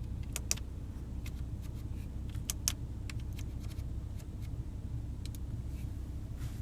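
Scattered light clicks from a Porsche Cayenne's center-console multimedia control knob being turned and pressed, over a steady low hum in the car's cabin.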